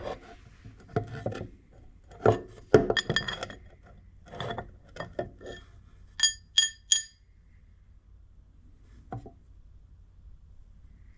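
Metal stock and tools handled on a workbench: a run of knocks and clatter, then three quick ringing metallic clinks about six seconds in and one more knock near nine seconds.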